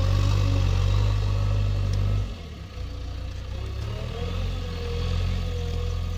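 Heavy diesel engine running under load, loud for the first two seconds, then easing off to a lower, steady running about two seconds in, with a faint wavering whine above it.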